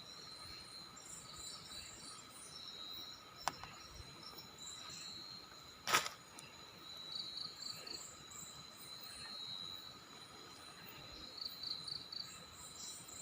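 Insect chorus with crickets trilling in a steady high tone and pulsing chirps over it. Two sharp clicks come about three and a half and six seconds in.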